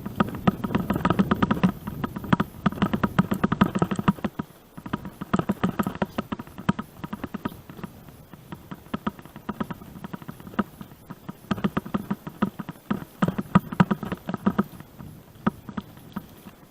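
A mountain bike rattling and clicking as it rolls over a rough gravel forest road, in rapid clusters of knocks that grow louder over the first four seconds and again around twelve to fifteen seconds in.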